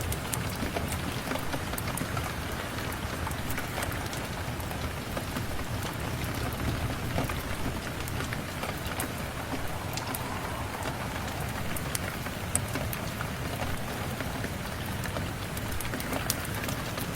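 Steady rain falling, an even hiss with many scattered sharp ticks of drops or crackles.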